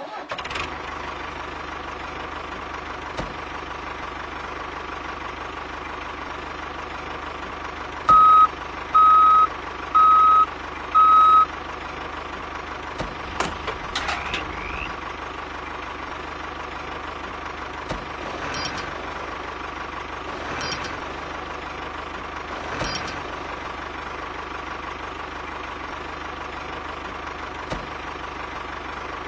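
Toy tractor's engine sound running steadily, with four loud reversing beeps about a second apart a little over a quarter of the way in, as it backs up to the trailer. A few sharp clicks follow shortly after.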